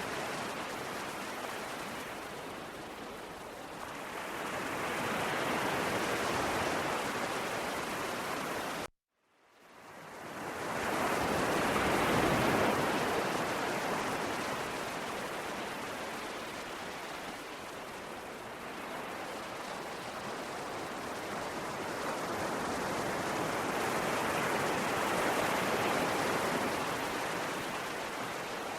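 Sea waves washing in and drawing back in slow surges, each swell building and fading over several seconds. About nine seconds in the sound cuts out abruptly for under a second, then swells back in.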